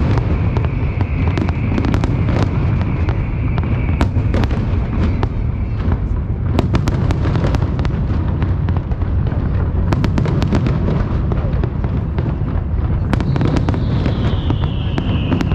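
Aerial fireworks display: a continuous low rumble of shell bursts with dense crackling throughout. A steady whistling tone runs through the first few seconds, and another whistle falls in pitch near the end.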